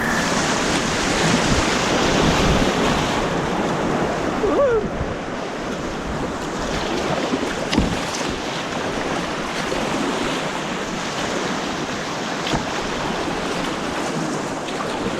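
Steady rushing of white water on an artificial slalom course, with wind buffeting the microphone.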